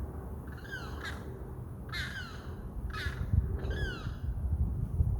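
A bird calling four times, about once a second, each call a short harsh note sliding downward in pitch.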